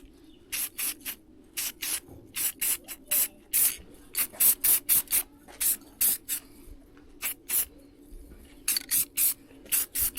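Aerosol spray-paint can sprayed in many short, separate hisses, roughly two to three a second, over a faint steady hum.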